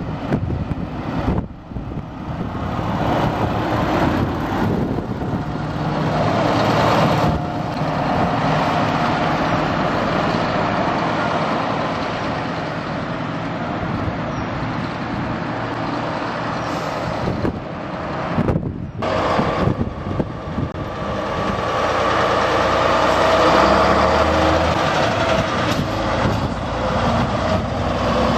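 Scania trucks driving by with their engines running, a steady loud engine noise with a hum that swells twice.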